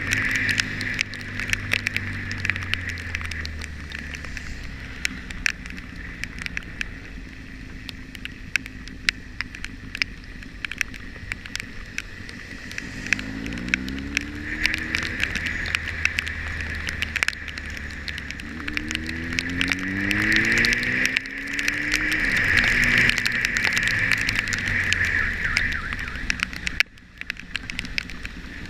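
Motorcycle engine running on the road, its pitch rising as it speeds up about halfway through and again about two-thirds in. Steady wind rush and a scatter of sharp ticks run over it, and the sound drops off briefly near the end.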